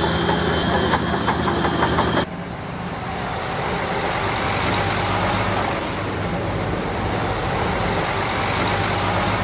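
Heavy bulldozer diesel engines running. A rapid metallic clatter comes in the first two seconds, then the sound cuts abruptly to a different, slightly quieter engine running steadily.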